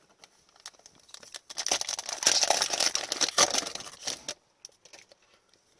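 Crinkling and rustling of a trading card pack's foil wrapper being handled and torn open, a dense crackle lasting about three seconds from about a second and a half in.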